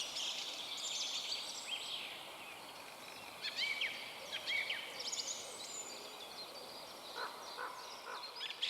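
Several songbirds singing at once in a forest: overlapping short chirps and whistled notes over a faint background hiss, with a few lower notes near the end.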